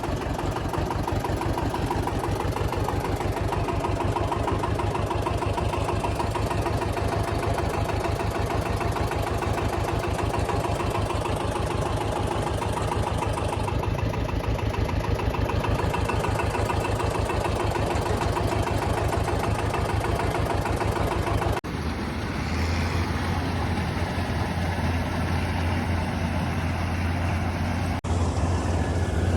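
Tractor diesel engine running with a fast, even beat. It cuts off abruptly about two-thirds of the way in and comes back with a steadier, deeper hum.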